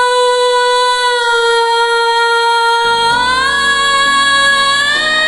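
A young woman's solo voice holds one long, steady high note for about three seconds. Low accompaniment chords then come in, and her voice slides up to a higher note and holds it.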